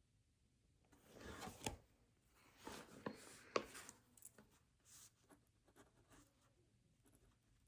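Desk work with paper and a pen or pencil: two short rustling swishes, each ending in a sharp tap, then a scatter of light ticks and scratches.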